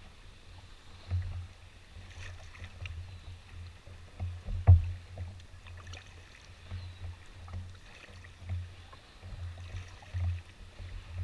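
Old Town Next canoe under way in choppy water: an uneven low rumble that swells every second or so, like wind buffeting the microphone, with light splashing of water against the hull. One sharp knock a little under halfway through is the loudest sound.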